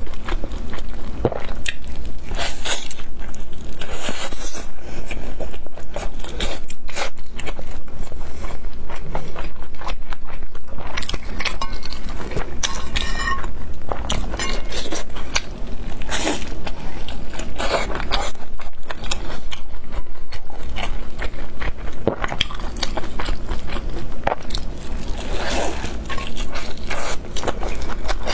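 Close-miked biting and chewing of pan-fried chive pockets, a steady run of irregular short clicks and crackles from the fried crust and filling.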